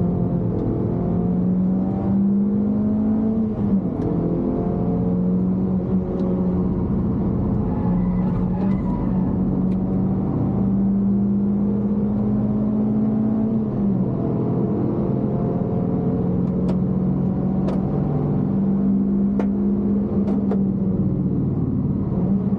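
Suzuki Swift Sport ZC32S's 1.6-litre four-cylinder engine under hard acceleration at high revs, heard from inside the cabin. Its pitch climbs steadily and drops sharply three times as the gears change.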